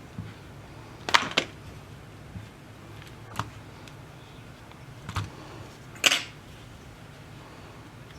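A few sharp clicks and taps of small tools and tablet parts being handled on a workbench, a quick double click about a second in and the loudest single click about six seconds in, over a low steady hum.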